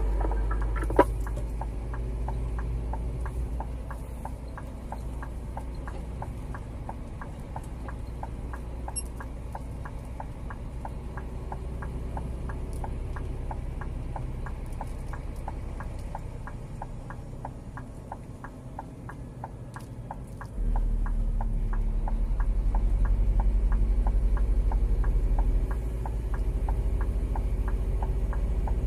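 Scania G410 truck's 13-litre six-cylinder diesel running low, heard from inside the cab, over a steady clicking of the indicator relay at about three clicks a second. About twenty seconds in, the engine note jumps sharply louder and stays up as the engine takes load.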